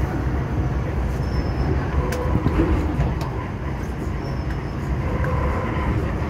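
MTR M-Train electric multiple unit running along the track, heard from inside the carriage: a steady low rumble of wheels on rail with a faint motor hum, and two sharp clicks about two and three seconds in.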